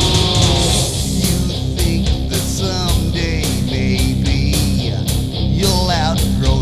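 Rock song with electric guitar over bass and a steady drum beat; the guitar plays bending, wavering lead notes.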